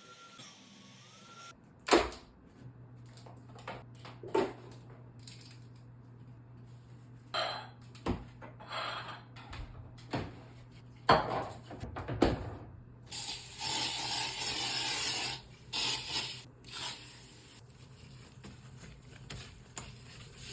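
Household objects being handled during tidying: a series of sharp knocks and clicks, the loudest a few single hard knocks, with a steady hiss lasting about two seconds past the middle and a faint low hum underneath.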